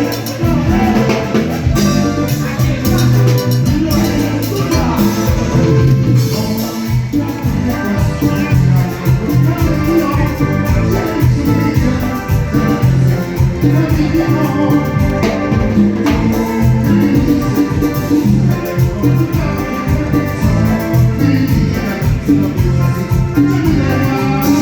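Live band playing upbeat Latin dance music, with a heavy bass line, percussion and a steady dance beat, recorded from within the room.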